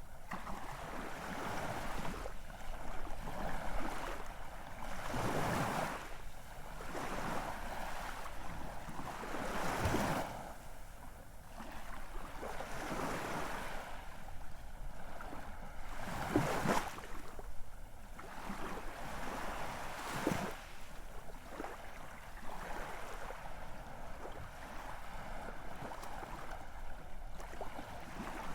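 Ocean surf: waves swelling and breaking in irregular surges a few seconds apart over a steady wash of noise.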